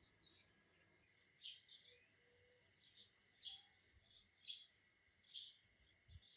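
Sparrows chirping in short, repeated high chirps, about one or two a second, over a faint steady high-pitched hum.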